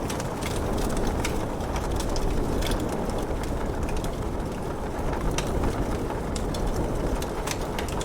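Wood fire crackling with frequent, irregular sharp pops and snaps over a steady rumbling hiss of rain.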